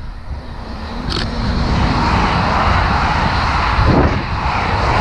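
LNER Azuma high-speed train approaching and passing at speed: a rushing noise of wheels and air that builds over the first two seconds and stays loud as the carriages go by. Wind buffets the microphone throughout.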